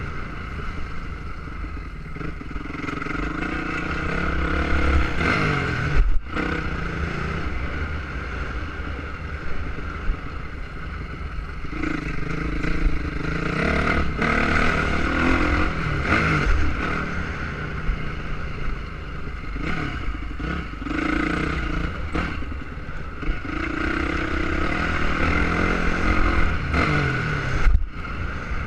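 Motocross motorcycle engine revving up and down over and over as it is ridden, with the throttle cut sharply about six seconds in and again near the end.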